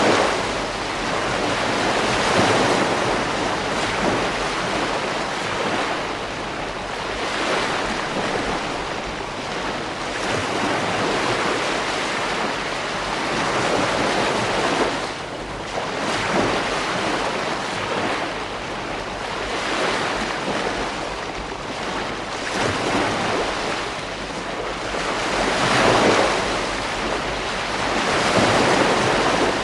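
Ocean waves breaking and washing on a beach, a continuous surf that swells and eases every few seconds, with wind on the microphone.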